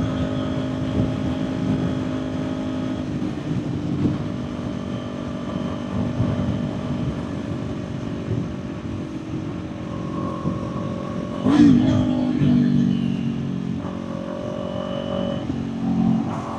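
Kawasaki Ninja 400 parallel-twin engine running on the road as the bike slows in traffic, under wind noise. The engine note holds steady, then steps to new pitches. A short, loud burst of revs comes about eleven and a half seconds in.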